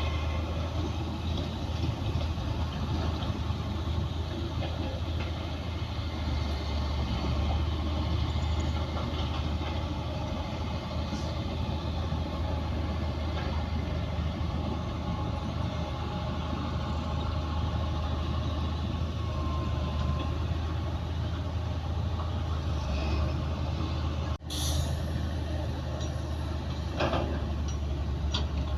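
Heavy diesel earthmoving machinery running steadily with a deep engine hum, the engine sound broken for an instant about three-quarters of the way through. A few sharp metal clanks come near the end.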